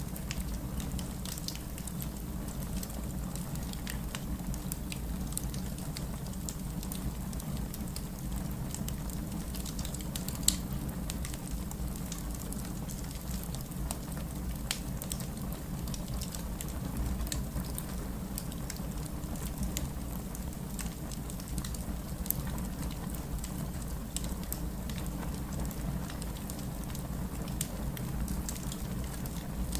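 Wood fire burning in a fireplace, with a steady low rumble of the flames under many small scattered crackles and a couple of sharper pops, about a third of the way in and again a little after the midpoint.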